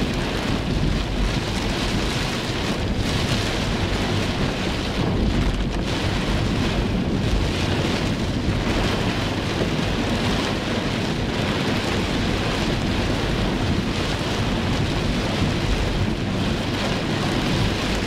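Heavy tropical downpour drumming on a car's roof and windshield, heard from inside the cabin: a steady, dense rush with a deep rumble underneath.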